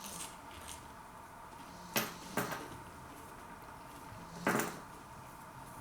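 Three short knocks: one about two seconds in, a second half a second later, and a slightly longer one a little past the middle, over a faint steady hum.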